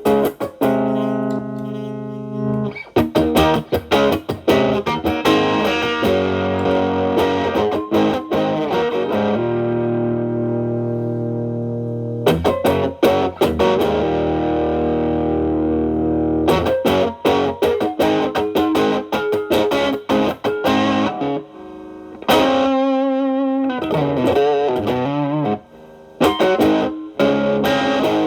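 Telecaster played through an MXR Distortion+ stacked with a Boss SD-1 overdrive into a Marshall Valvestate amp's clean channel, giving a distorted electric guitar tone. Picked lead notes alternate with chords held for a few seconds, and a held note is shaken with wide vibrato about three quarters of the way through.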